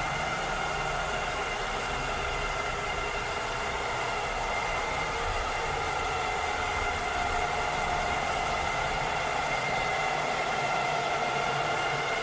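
Robot vacuum cleaner running steadily: a motor whine with several steady tones over a hiss of suction. One of the tones shifts a little lower about halfway through.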